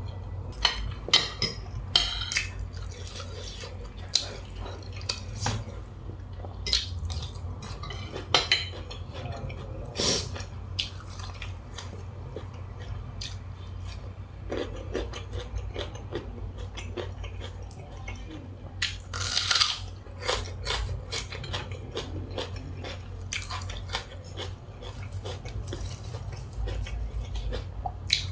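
Eating sounds: utensils clicking and clinking against a plate at irregular intervals, with chewing of grilled beef salad, over a steady low hum.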